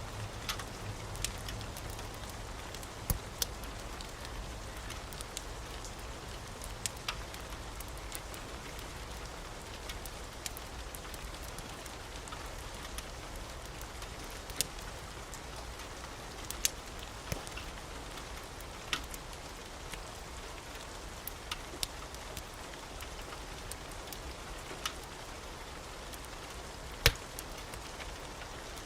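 Wood fire crackling in a fireplace: a steady hiss broken by irregular sharp pops, the loudest about 27 seconds in.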